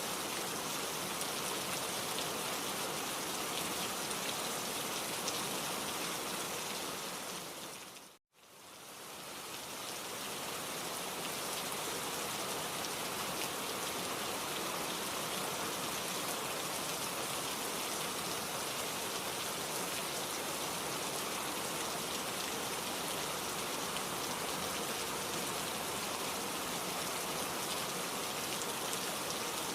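Steady, dense rain hiss. About eight seconds in, it fades out to a moment of silence and then fades back in.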